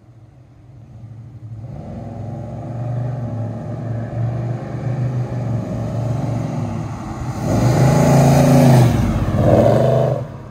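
Big-block V8 engine of a 1970 Chevelle SS 396 running, fading in and growing louder. It is at its loudest for the last few seconds with a short rev, then drops off suddenly.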